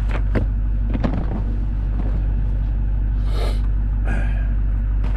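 Duramax diesel engine of a Chevrolet Silverado idling steadily, still warming up shortly after a morning cold start, with a few light clicks and a brief hiss about three and a half seconds in.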